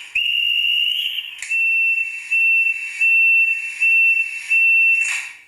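Electronic warning tone from a Minitrix N-scale BR 101 locomotive's sound decoder: one steady high tone for about a second, then five evenly spaced beeps that stop abruptly near the end.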